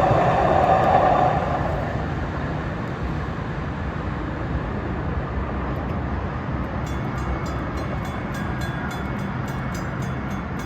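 Light-rail train passing a grade crossing, loud at first and falling away after about a second and a half into a steady rumble. From about seven seconds in, a mechanical crossing bell strikes rapidly, about three strokes a second, with a bright metallic ring.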